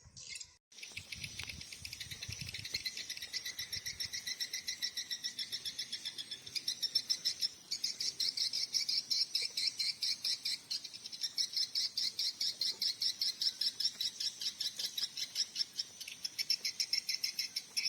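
Swiftlet calls: a fast, even train of high chirps, about five a second.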